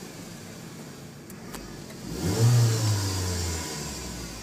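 2010 Ford Transit Connect's 2.0-litre DOHC four-cylinder idling, then revved once about two seconds in. The revs hold for a second or so before dropping back to idle.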